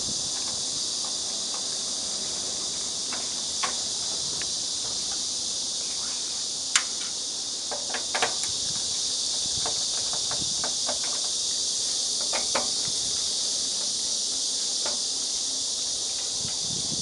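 Steady high-pitched hiss throughout, with scattered light clicks and knocks, sharpest a little before 7 seconds in and several around 8 seconds in, as of cables and plugs being handled.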